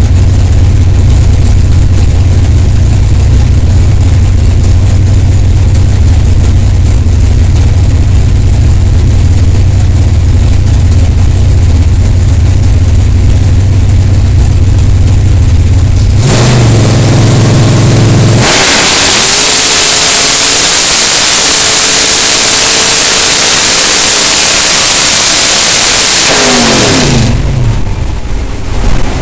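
Drag-racing car's engine heard from inside the cockpit, loud enough to overload the in-car microphone. It keeps up a low rumble for about sixteen seconds, then rises sharply and runs at full throttle for about ten seconds, with the pitch falling away near the end as the engine comes off the throttle.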